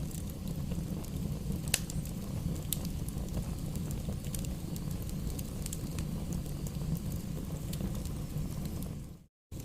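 Wood campfire crackling, with sharp pops scattered over a steady low rumble; one pop about two seconds in is louder than the rest. Near the end the sound cuts out abruptly for a moment, then resumes.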